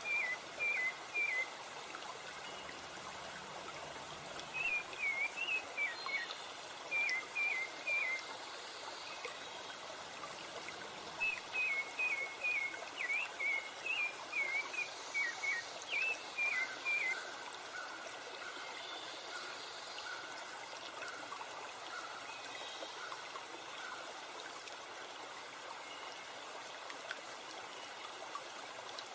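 Flowing stream water running steadily, with a bird singing repeated short, sharp whistled notes in three bursts during the first half.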